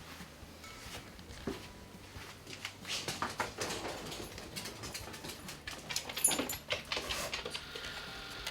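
Kittens scuffling about: a run of quick taps and rustles, busiest in the middle.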